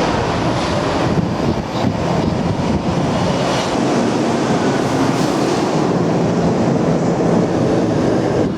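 Steady running noise of a vehicle in motion: a dense rumble and hiss with a low hum underneath, holding level throughout.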